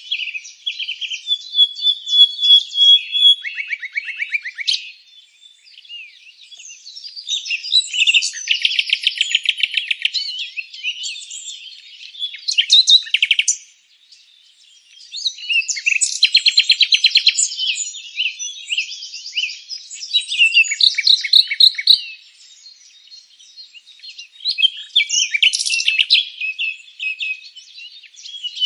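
Songbirds singing in bouts of rapid chirps, trills and buzzy repeated notes, with short pauses between the phrases.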